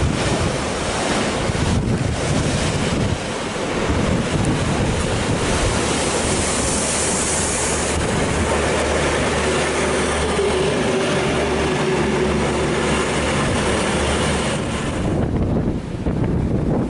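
Storm waves crashing and surging against a coastal railway sea wall, with strong wind buffeting the microphone. A steady low hum runs under the surf through the middle stretch.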